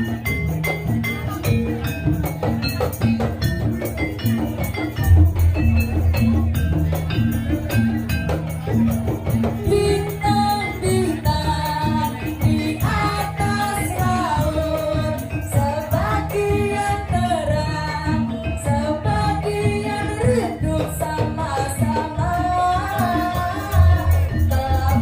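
Live gajah-gajahan folk band music with a steady percussion beat; a heavier bass beat joins about five seconds in, and a singer's voice comes in about ten seconds in.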